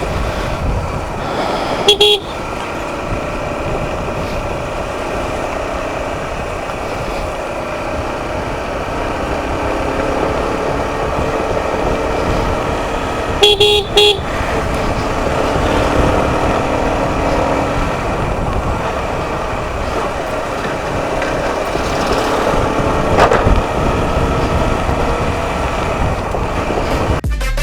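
Motorcycle riding along with steady engine and wind noise, a horn sounding briefly about two seconds in and twice in quick succession near the middle.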